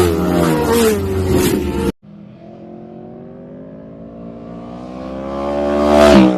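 Motorcycle engine at high revs, its pitch falling as it eases off. After an abrupt cut, another motorcycle approaches while accelerating, its engine note rising in pitch and growing louder, then passes close near the end with a slight drop in pitch.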